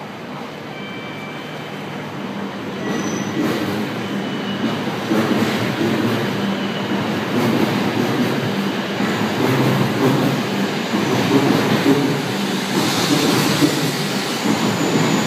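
E7 series Shinkansen pulling into the platform: the rumble of its wheels and running gear grows steadily louder as the cars come alongside and pass close by, with a few brief high wheel squeals in the first few seconds.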